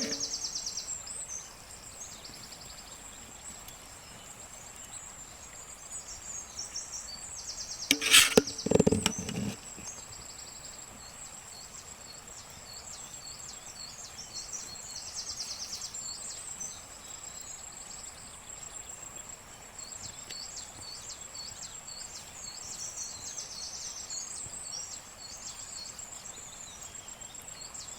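A steady high insect drone with many short bird or insect chirps over it. About eight seconds in comes a sharp knock, the loudest sound, followed by a second of low thudding.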